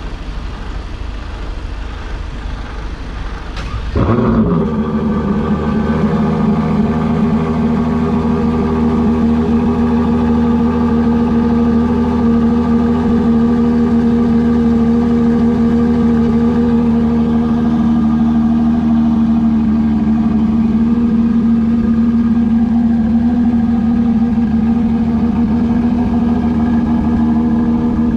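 Ferrari 812 Competizione's naturally aspirated V12 fires up about four seconds in with a short flare of revs, then settles into a steady idle.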